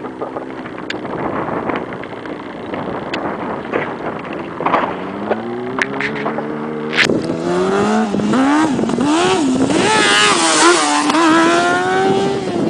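Sport motorcycle engine running, revving up with the pitch climbing from about five seconds in, then rising and falling through the gears before holding a higher, louder note near the end.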